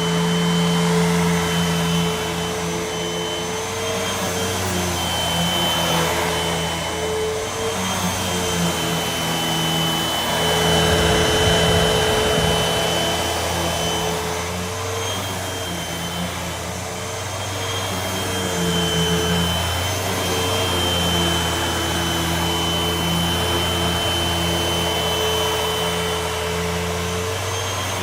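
Hoover WindTunnel upright vacuum cleaner running continuously, a steady motor whine over the rush of air. The loudness rises and falls a little as it is worked over the surface.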